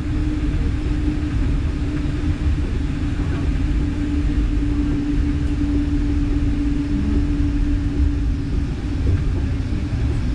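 Electric narrow-gauge train of the Centovalli Railway running along the track: a steady low rumble from the wheels and running gear, with a steady hum over it that fades near the end.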